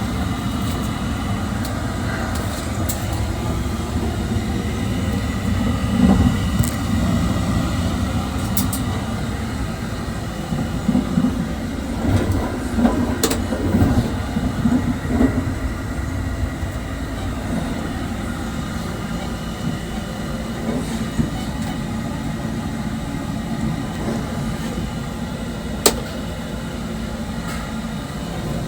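JR 681-series electric train running, heard from inside the car: a steady low rumble that swells unevenly in places, with a few sharp clicks.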